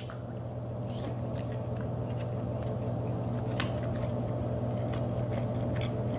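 A person chewing a bite of soft, non-crispy fried popcorn chicken with the mouth closed: scattered soft, moist chewing clicks. A steady low hum runs underneath.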